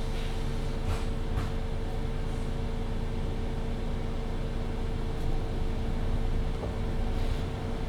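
MAN Lion's City 19C EfficientHybrid diesel-hybrid bus heard from inside while in service: a low engine and drivetrain rumble with a steady whine, and a couple of light knocks or rattles about a second in.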